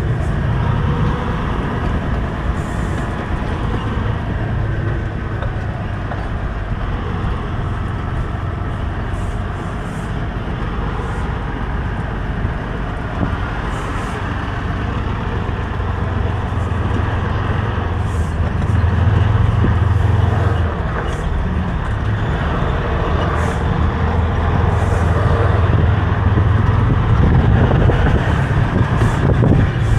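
Semi-truck's diesel engine running at low speed while the tractor-trailer is maneuvered back and forth, its note swelling louder for a few seconds about eighteen seconds in and again near the end.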